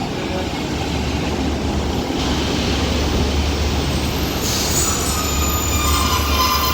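Class 150 diesel multiple unit running into the platform, a low diesel rumble getting louder as it draws near. From about four and a half seconds in, several high squealing tones come in as the train slows to a stop.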